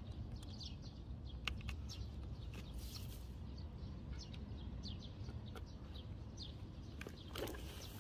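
Small birds chirping over and over in short, high, falling calls, over a steady low rumble, with a few sharp clicks.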